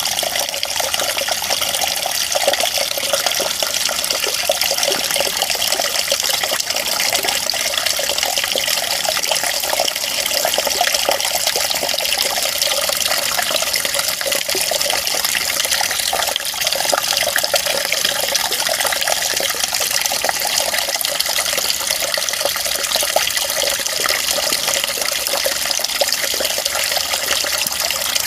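Water running steadily, an even, unbroken splashing hiss with little low end.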